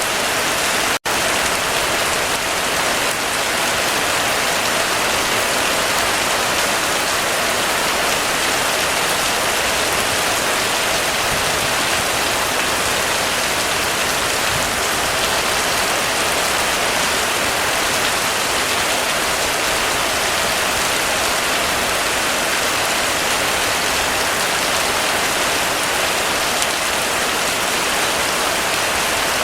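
Heavy rain falling in a steady, dense hiss, broken once by a split-second dropout about a second in.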